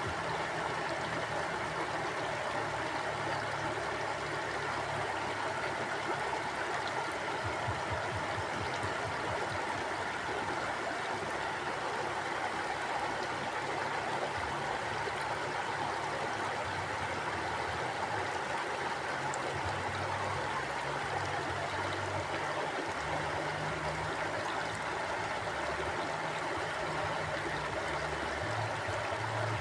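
A flowing river: a steady, even rush of moving water.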